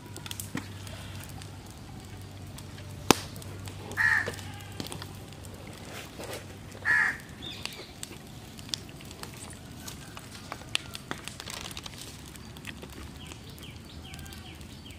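A bird giving two short, harsh, crow-like caws, about four and seven seconds in. There is also one sharp click a little after three seconds, over faint handling sounds.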